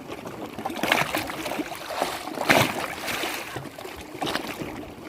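Lake water lapping and splashing in irregular surges, the loudest splash about halfway through.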